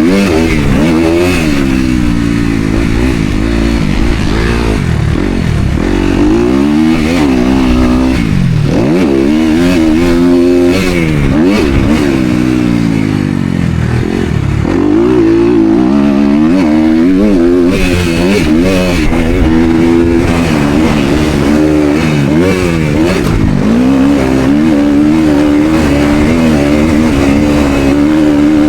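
Motocross dirt bike engine at racing revs, the pitch climbing and dropping again and again as the throttle is opened and shut. At times a second bike's engine can be heard alongside.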